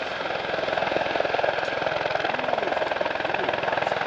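A formation of Eurocopter EC120 Colibri helicopters in a hover, with the rapid chop of their rotors and the turbine running steadily. The noise grows a little louder about half a second in as they lift off together.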